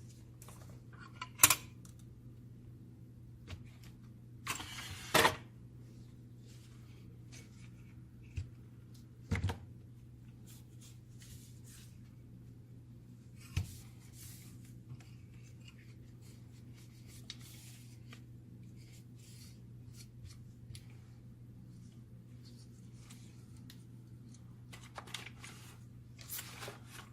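Parts of a printer fuser unit being handled: occasional sharp clicks and knocks, the loudest about a second and a half and five seconds in, with light rustling between them. A steady low hum runs underneath.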